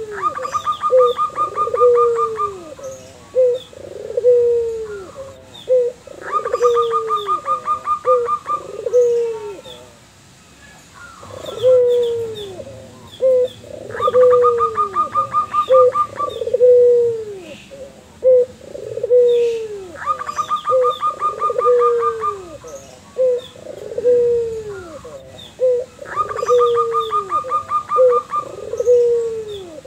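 A white puter (domestic Barbary dove) and a zebra dove (perkutut) calling back and forth. A steady run of drooping coos is broken about every six seconds by a quick series of higher, evenly spaced notes.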